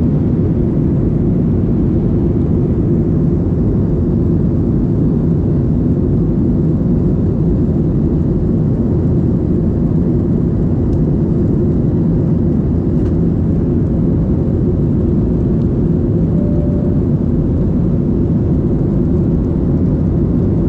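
Steady low cabin noise inside a Boeing 737-800 airliner in flight: engines and airflow at a constant level.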